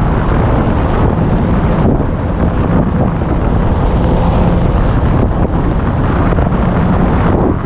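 Wind buffeting a helmet-mounted action camera's microphone at riding speed, loud and steady, with the Yamaha R1's inline-four engine running underneath.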